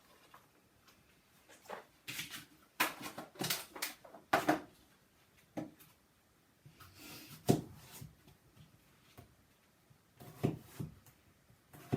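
Irregular knocks and clatter of kitchen utensils and cookware being handled, busiest between about two and five seconds in, with a few more knocks later.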